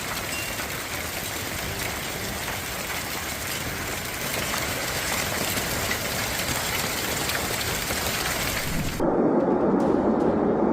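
Hailstorm: a dense, steady hiss of countless hailstones pelting down. About nine seconds in it cuts abruptly to a different, louder, lower rushing noise.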